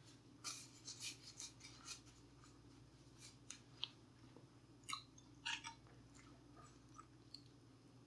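A person chewing food close to the microphone, in clusters of short crisp crunches and mouth clicks, over a steady low hum.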